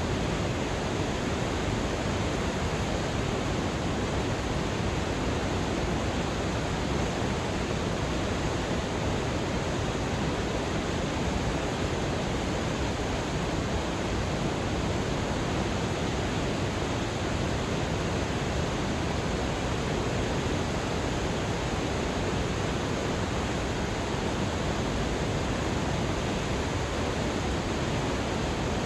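Waterfall pouring steadily: a dense, unchanging rush of falling water with no breaks.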